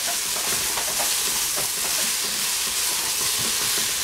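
Eggplant frying in a stainless steel pot, sizzling steadily, with a wooden spatula stirring and scraping through the pieces.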